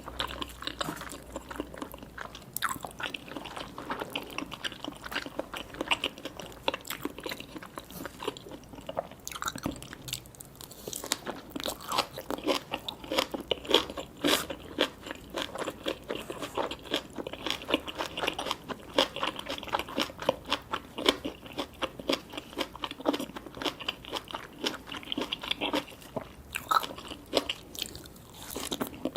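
Close-miked eating sounds: steady chewing with rapid, crisp crunching, typical of a mouth working through crunchy fried seafood and sushi.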